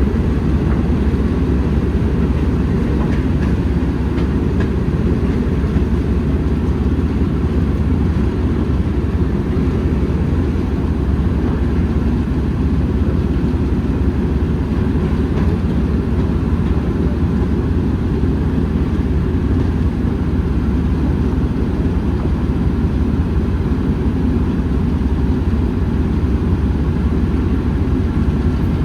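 Heritage railway train, a steady low rumble that does not change throughout.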